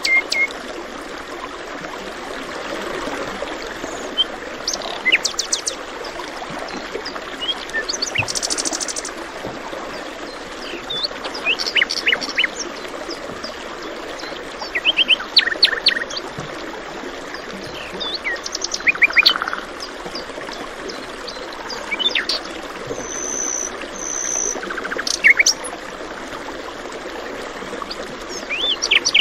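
Several birds calling and singing in short bursts of quick chirps and trills over the steady rush of a stream.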